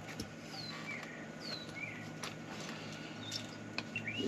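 A bird calling: short falling whistled notes in pairs, repeated about a second apart, then two quick rising notes near the end. A few faint clicks sound in between.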